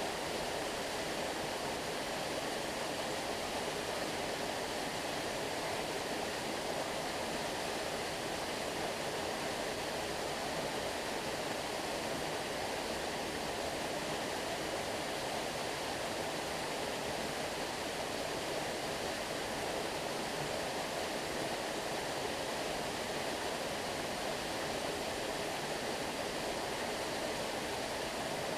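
Flowing stream water rushing in a steady, even wash, with no breaks or separate splashes.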